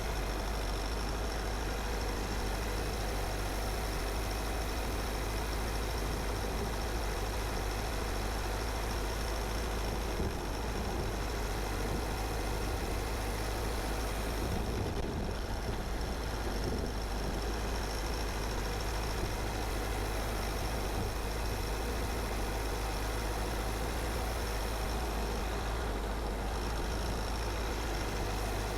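A car driving at steady speed: continuous engine and road noise with a strong low rumble and no sudden events.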